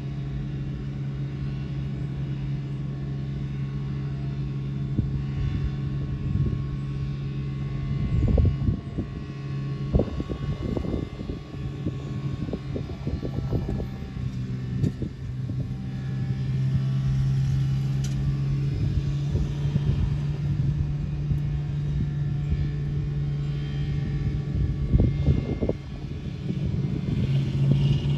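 TEXRail Stadler FLIRT diesel multiple unit running, a steady low engine drone. Clusters of clattering knocks come about a third of the way in and again near the end.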